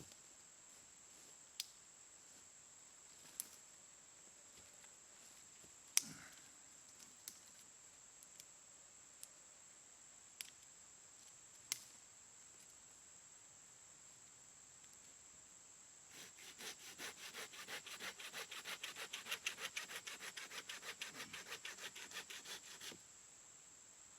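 Bow drill at work, a hemlock spindle turning in a hemlock hearth board: after scattered light knocks and clicks, a fast, even rhythmic rubbing of wood on wood starts about two-thirds of the way in and stops abruptly a second before the end.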